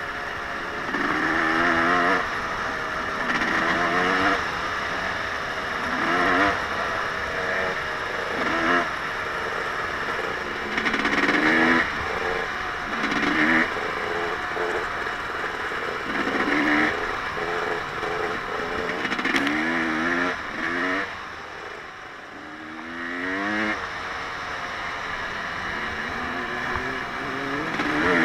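Off-road vehicle engine being ridden, revving up and easing off again and again as the rider works the throttle and gears. The engine drops back briefly about two-thirds through, then picks up louder near the end.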